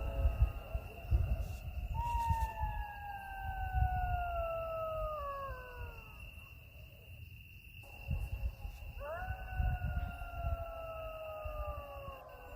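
Jackals howling: one long wail slides slowly downward from about two seconds in for about four seconds, and another starts about nine seconds in and falls away near the end, over a steady high insect trill.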